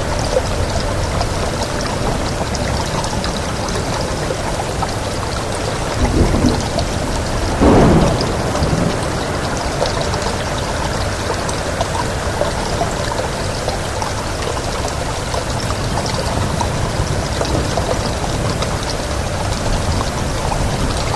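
Steady rain: a dense, even hiss with scattered drop taps. There are two brief louder swells, a small one about six seconds in and a stronger one about eight seconds in.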